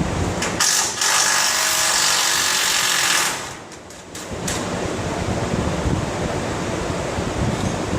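Milwaukee M12 1/4-inch cordless impact driver hammering for about three seconds, from about half a second in, buzzing a bolt off a truck frame. After that, only a steady background hiss.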